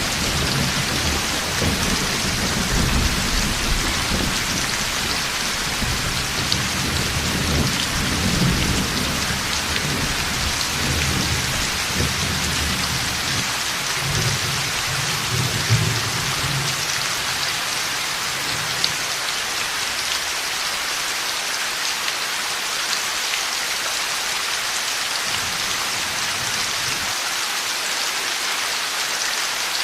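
Heavy rain pouring steadily, with rolling thunder rumbling low through the first two-thirds and then dying away, leaving the rain alone apart from a brief distant rumble near the end.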